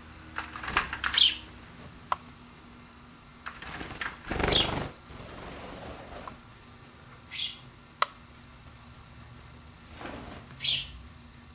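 Pet bird chirping, four short high calls spread a few seconds apart, with bursts of wing flapping and two small sharp clicks.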